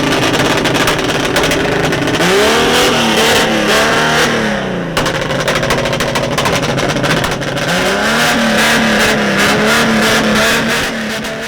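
A car engine being revved, its pitch climbing and falling repeatedly in two spells, one about two seconds in and one about eight seconds in, with a rapid rattle of exhaust pulses throughout.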